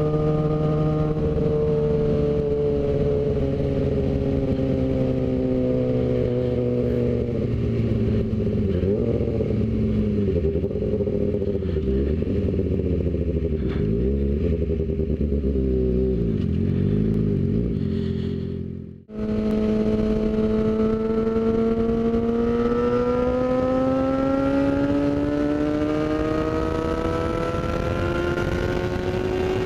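Motorcycle engine heard from the rider's seat with wind: the engine note slowly drops as the bike eases off, while a second engine's note crosses it for several seconds. After a brief dropout about two-thirds in, the engine note climbs steadily as the motorcycle accelerates hard.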